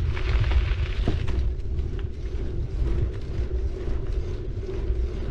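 A bicycle being ridden: low wind rumble on the camera's microphone with tyre noise from the road surface, crackly for the first second or so and then smoother.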